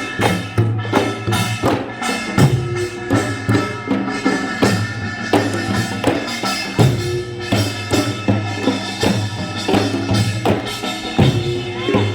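Korean folk music played live: drums and other percussion beat a steady rhythm, about two to three strokes a second, under sustained pitched melody.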